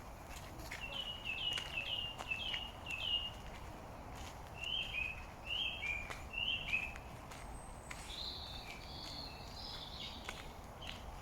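A songbird singing in repeated phrases: a short two-part phrase given about five times, then a lower phrase three times, then a higher twittering phrase. A steady low background rumble runs under it.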